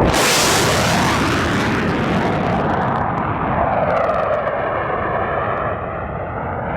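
F-35 Lightning II fighter's jet engine, a Pratt & Whitney F135 turbofan, running loud as the jet flies past. From about halfway through, a phasing, swishing tone sweeps through the noise as it goes by.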